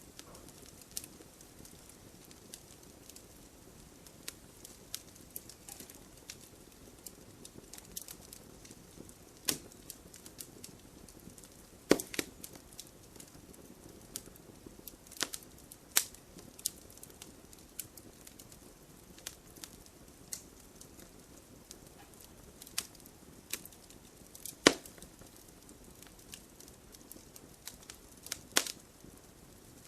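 Wood campfire crackling: burning firewood gives off irregular sharp pops and snaps, a few of them much louder, over a soft steady hiss of the flames.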